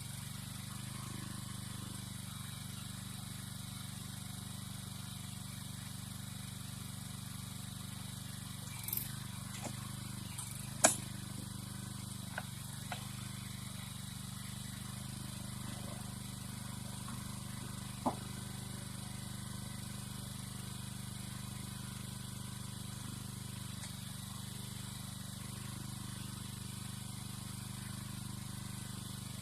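An engine running steadily at a low idle, with a few sharp knocks, one of them loudest about eleven seconds in.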